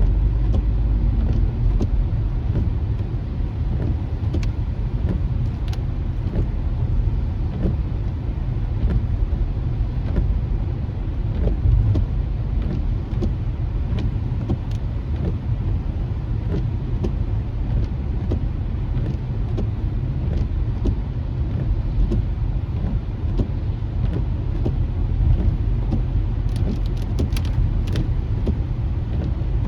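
Steady low road rumble of a car driving on wet streets, heard from inside the cabin, with scattered faint ticks and a quick run of ticks near the end.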